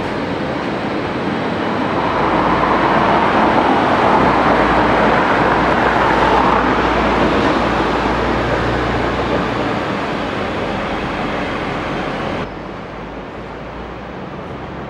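MTR Q-train running, a steady rumble and rail roar that swells and then eases. The level drops abruptly about twelve seconds in.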